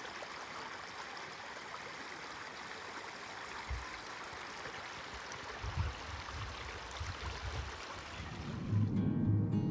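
Steady rushing outdoor noise like flowing water, with a few low thumps in the second half. Acoustic guitar music starts near the end.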